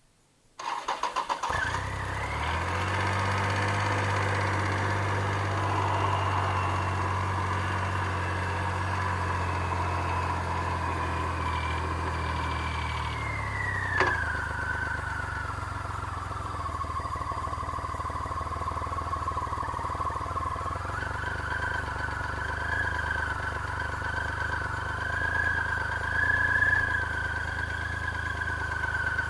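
Triumph Rocket III motorcycle's 2.3-litre inline-triple engine cranking briefly, catching and settling into a steady idle. About fourteen seconds in, a sharp click comes and the idle drops lower before running on steadily.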